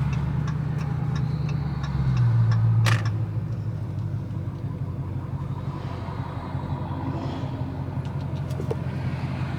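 Dodge Charger Scat Pack's 392 Hemi V8 running as the car is driven at low speed, a low drone that swells around two to three seconds in and then settles to a steady, quieter run.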